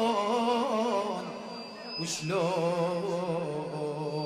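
A man singing an Iraqi devotional chant with ornamented, wavering notes. It fades about a second and a half in. A short sharp sound comes about two seconds in, then the voice resumes on a new note.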